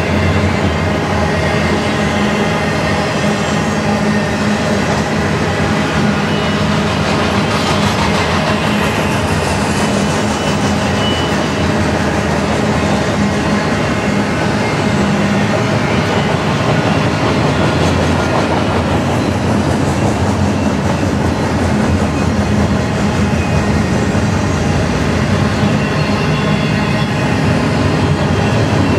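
Double-stack intermodal freight cars of a Canadian Pacific train rolling past: a steady rumble and rattle of steel wheels on the rail.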